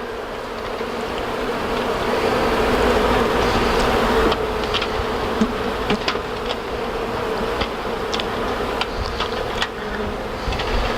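Honeybees buzzing in a dense mass close to the microphone, a steady hum that swells about two seconds in, with scattered light clicks through it.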